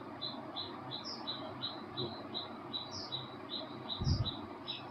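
A small bird chirping steadily, a short note of the same pitch about three times a second, with a higher note now and then. A soft low thump about four seconds in.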